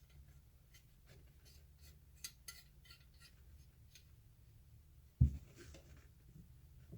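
Light clicks and taps of small hard parts being handled, with one heavy thump a little after five seconds in, over a faint low hum.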